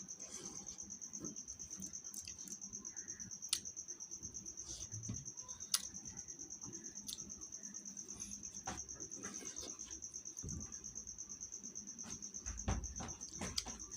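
A cricket chirping steadily in a fast, even, high-pitched trill. A few sharp clicks and knocks come over it, with a cluster of knocks and a low thump near the end.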